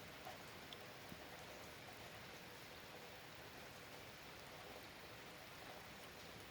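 Faint, steady rain: an even hiss with a few small drop ticks.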